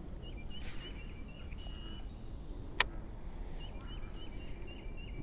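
A bird calling in short, repeated chirps, in two runs with a pause in the middle, over a steady low outdoor rumble. A brief swish comes about half a second in, and a single sharp click near the three-second mark is the loudest sound.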